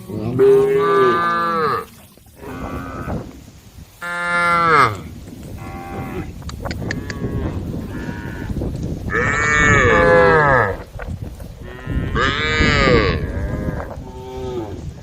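A herd of cows mooing, calling to one another: four long, loud moos, one right at the start, one about four seconds in, one in the middle and one near the end, with fainter moos from other cows overlapping between them.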